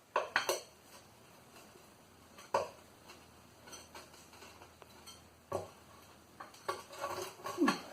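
Metal clanks and knocks from a steel engine sump being worked loose and lifted off a Land Rover 2.25 diesel: a couple of sharp clanks near the start, single knocks a few seconds apart, and a cluster of clatter near the end.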